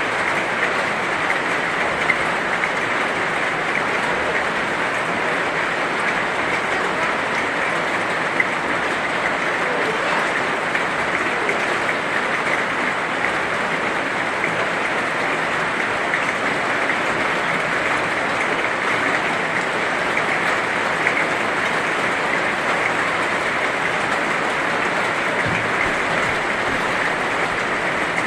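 Heavy rain falling steadily: an even, unbroken hiss, with a few sharper drop ticks here and there.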